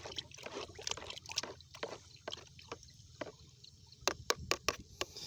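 Water in a bucket being stirred by hand, sloshing irregularly as fungicide powder is mixed into it, with a few sharp clicks near the end.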